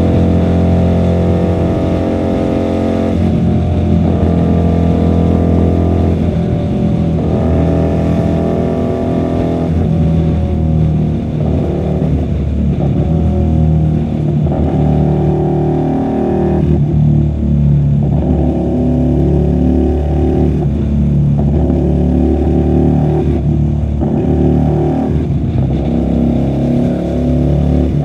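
QJMotor SRV250 V-twin motorcycle engine through a custom 2-into-1 exhaust, riding in traffic. The engine note climbs and falls repeatedly as the bike accelerates, shifts and eases off, with a pitch drop every few seconds. It is heard through a microphone carried in the rider's bag.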